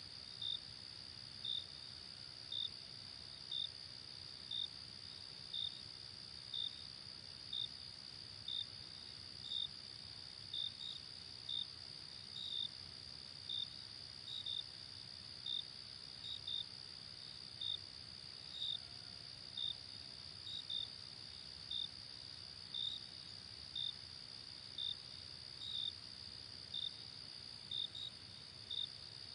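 Night insects: a steady high-pitched trill with crickets chirping over it about once a second, sometimes in pairs.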